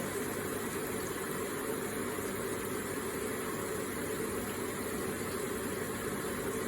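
Electric water feature running, water trickling and splashing in a steady, unbroken stream.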